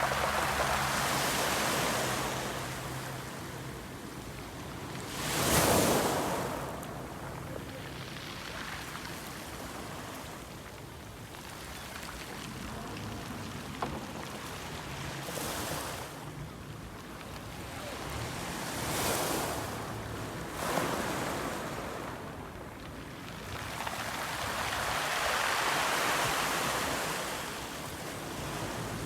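Water rushing and splashing past a moving boat, with wind on the microphone; the wash swells and fades every few seconds, loudest about five and a half seconds in.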